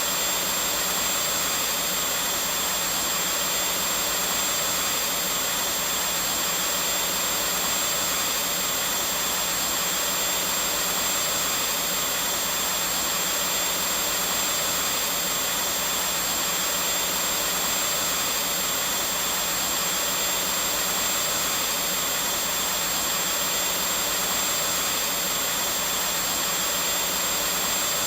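Vacuum cleaner running steadily, a constant motor whine and airflow hiss with no change in pitch or level.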